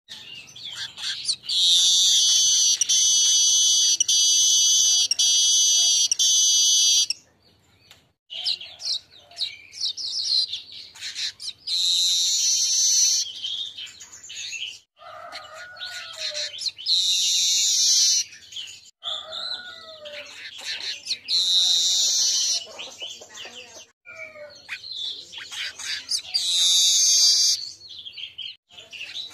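Golden-headed manyar weaver singing: a long, high buzzing phrase of about five seconds, then shorter buzzing phrases every four to five seconds with chattering notes between them.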